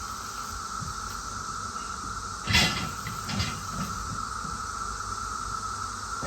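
Steady, high-pitched droning chorus of cicadas. A brief knocking, rustling noise comes about two and a half seconds in, with a fainter one just after.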